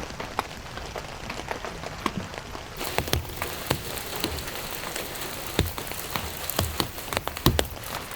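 Rain falling, with many separate drops striking a surface in irregular ticks over a steady hiss; the hiss grows fuller about three seconds in.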